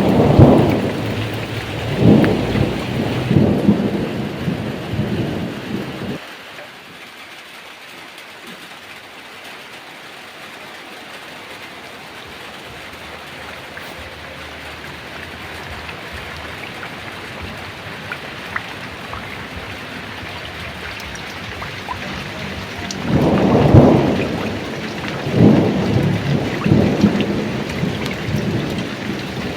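Heavy rain falling steadily, with rolling thunder twice: a long rumble at the start that dies away after about six seconds, and another that builds up near the end.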